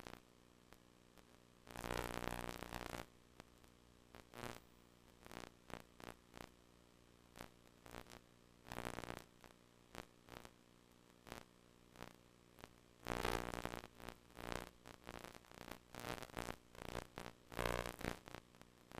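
Buzzing noise from a VHS tape's HiFi audio track, a low steady buzz under irregular bursts of crackling static from slight tape damage. The loudest bursts last about a second each, about two seconds in and again around thirteen seconds in, with another near the end.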